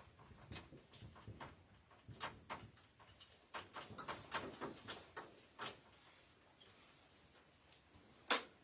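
Light handling noise: soft, irregular clicks and taps, with one sharper click near the end.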